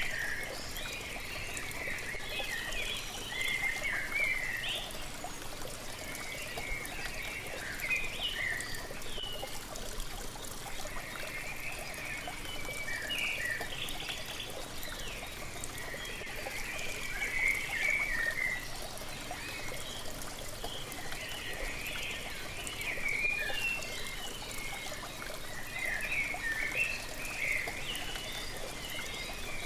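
Waterfall water pouring and splashing steadily, with small birds chirping in short bursts every few seconds over it.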